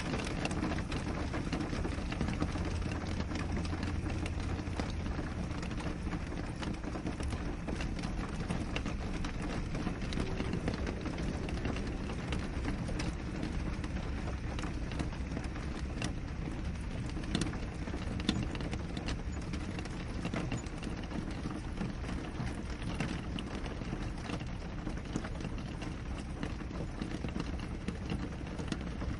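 Steady rain falling on a window: an even wash of noise with many small drops tapping on the glass.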